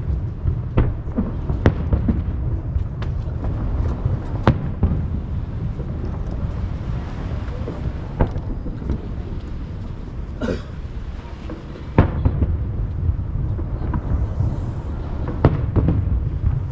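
Aerial firework shells bursting over the sea: sharp bangs every second or few, over a continuous low rumble of booms echoing back from the surrounding hills. About ten seconds in there is a brief wavering crackle or whistle.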